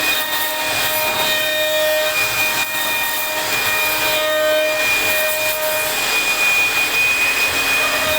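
CNC router spindle whining steadily while its bit cuts into wood, with a rasping cutting noise under the whine.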